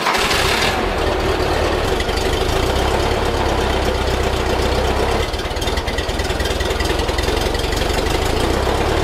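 A 1958 Porsche 356A 1600's air-cooled flat-four engine, just fired up, running at idle with a steady low rumble after the first second. The valve clearances have just been reset.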